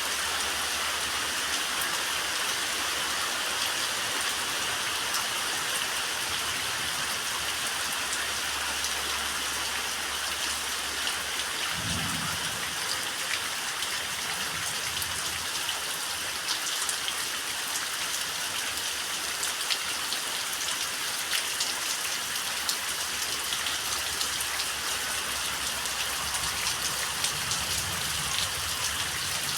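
Steady summer rain falling in a dense hiss, with many small drop taps. A brief low rumble comes about twelve seconds in, and a softer one near the end.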